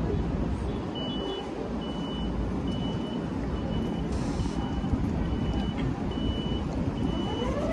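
Electronic warning beeper sounding a steady series of short high beeps, a little more than one a second, starting about a second in, over a continuous low rumble of vehicles or trains.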